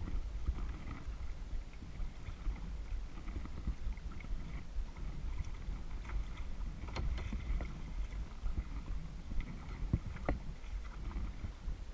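Kayak paddling: paddle blades dipping and splashing in lake water, with a few light knocks about seven and ten seconds in, over a low rumble of wind on the camera microphone.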